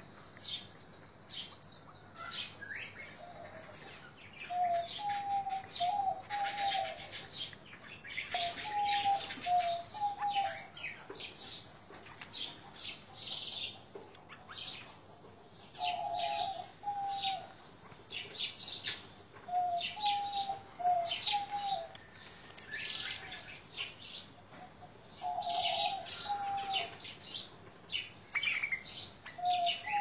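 Aviary birds, white-eared bulbuls among them, calling. A short, low, fluty phrase of two or three notes comes back every few seconds over frequent high chirps.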